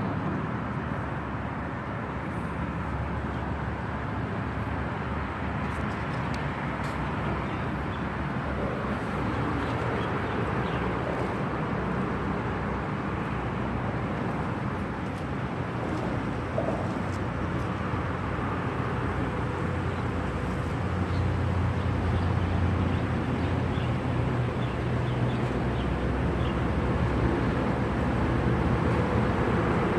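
Large river oil tanker's engine giving a low, steady drone that grows louder about two-thirds of the way through as the vessel passes.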